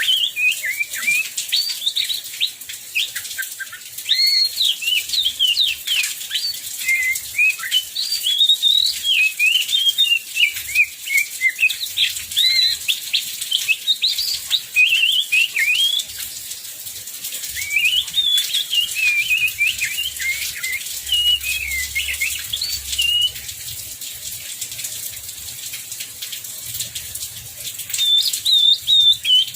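Oriental magpie-robin (kacer) singing a long, fast, varied song of quick whistled and chattering phrases, with a short break about halfway through. A steady hiss of heavy rain lies beneath it.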